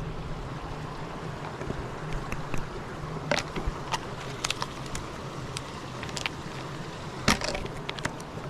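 Hiker's footsteps on a rocky trail: a few sharp irregular clicks and scuffs over a steady rumble of wind and movement on the microphone.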